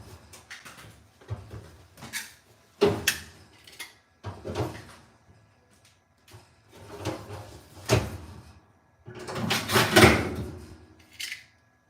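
Irregular knocks, clunks and scraping from handling parts of a clothes dryer. The loudest is a longer scraping sweep about nine to ten and a half seconds in.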